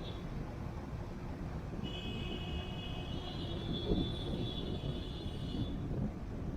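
Steady low road and engine rumble of a car driving. About two seconds in, a high, steady tone of several pitches starts and sounds for about four seconds.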